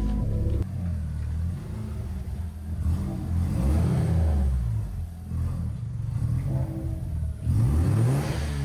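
Mazda RX-7 FD's rotary engine being revved, its pitch rising and falling several times, with a strong rise near the end.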